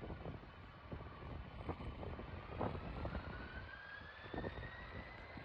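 Distant Boeing 747 jet engines with a thin whine rising steadily in pitch as they spool up for takeoff. Low wind rumble on the microphone sits underneath.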